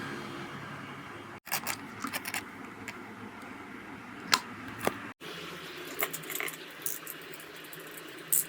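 Scattered light clicks and clinks over a low steady background. The sound cuts out completely twice, about one and a half seconds and five seconds in.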